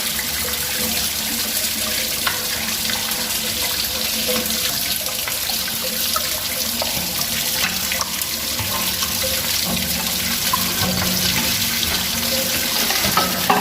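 Water pouring steadily out of an opened water pressure booster pump's air tank as it drains.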